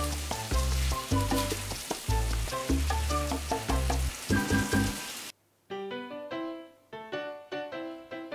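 Pork and tomato sizzling as they are stir-fried in a stainless steel frying pan, under light background music. The sizzling cuts off suddenly about five seconds in, leaving only the music.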